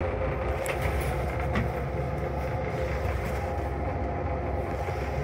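Steady rumble and hum of a Long Island Rail Road M3 electric railcar, heard inside its small stainless-steel restroom, with a few faint clicks.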